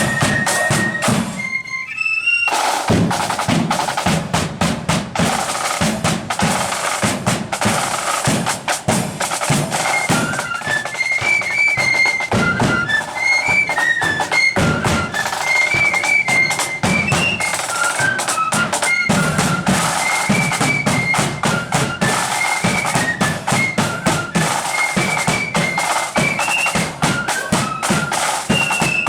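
Marching band playing a tune: a shrill high melody over rapid snare and bass drum strokes. The drums drop out briefly near the start, then come back in.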